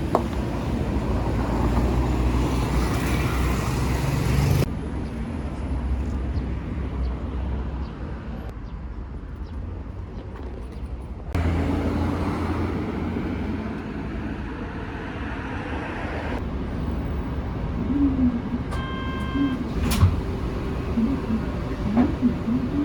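Vehicle and street rumble, changing abruptly several times as the clips cut, with faint voices near the end and a short electronic chime about nineteen seconds in.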